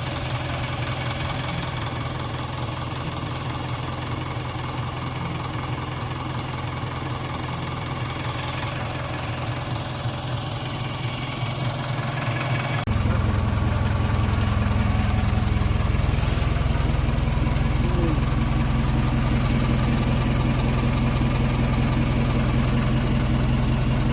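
Heavy diesel engine of a backhoe loader or truck running steadily. About halfway through it steps up suddenly and gets louder, with a deeper hum, then holds steady.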